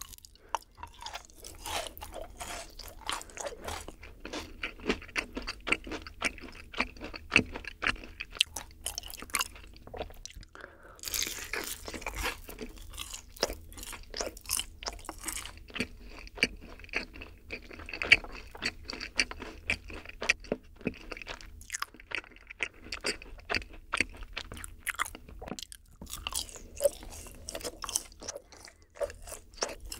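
Close-miked chewing of yakgwa, Korean honey-fried cookies: bites and wet, sticky chewing, a dense run of small clicks and smacks.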